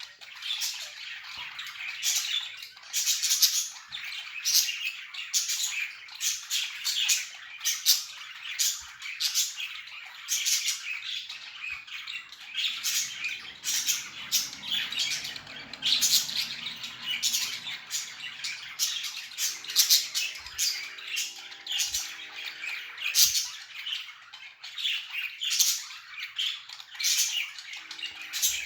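A flock of budgerigars chirping and chattering without a break, many short high calls overlapping one another.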